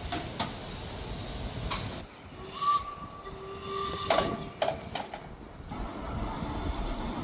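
Steam locomotive hissing steam. The hiss drops away after about two seconds, there are a couple of sharp knocks about four seconds in, and a lower hiss picks up again near the end.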